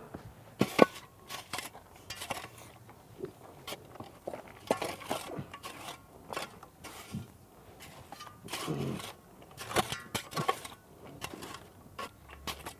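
Irregular scrapes and crunches of a hand tool working loose soil as it is levelled.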